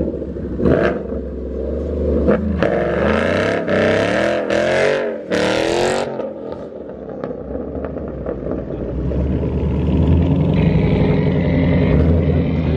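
Coyote V8 Mustang and a Dodge Charger Scat Pack V8 lined up to race: sharp throttle blips over a lumpy idle for the first six seconds, then both engines go to full throttle and build into a sustained, rising run as the cars pull away.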